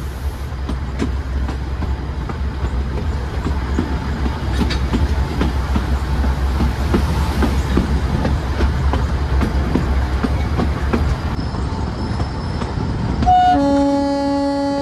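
Narrow-gauge passenger train running with a steady low rumble and wheels clicking over the rail joints, heard from an open coach window. About 13 seconds in, the ZDM-4 diesel locomotive's horn sounds one long, steady note that runs to the end.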